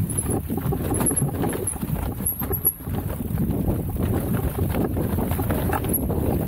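Haibike electric mountain bike riding along a forest trail: tyres rolling over rough ground with a continuous run of small, irregular knocks and rattles.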